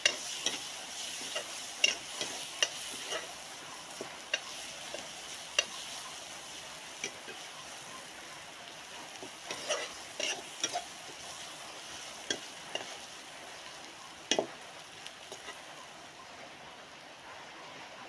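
Onions with ginger-garlic paste and turmeric sizzling in hot oil in an iron kadai, stirred with a spatula that scrapes and clicks against the pan now and then.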